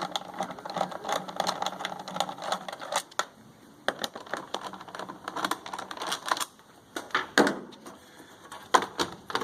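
Irregular clicks, taps and light rattles of plastic casing parts and hand tools being handled as a generator's cover panel is worked loose and taken off.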